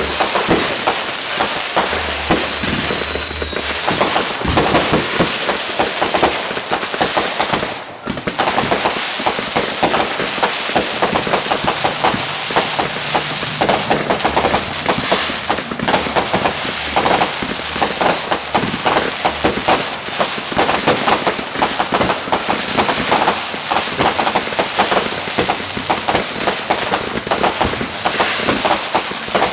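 Fireworks going off in a dense, continuous crackle of rapid pops, easing briefly about a quarter of the way in, with a short high whistle near the end.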